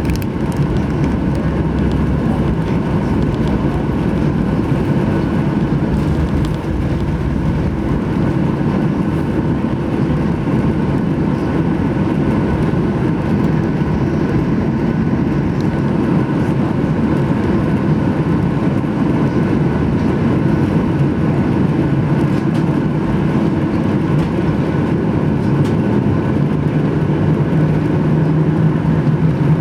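Steady engine and airflow noise inside the cabin of a Boeing 737-800 with CFM56 turbofan engines, a constant rumble with a low steady hum. Near the end a stronger low hum comes in.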